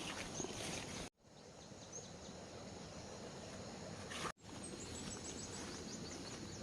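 Steady outdoor background noise with faint, rapid high-pitched chirps in the second half. The sound cuts out abruptly twice, once about a second in and again past the middle.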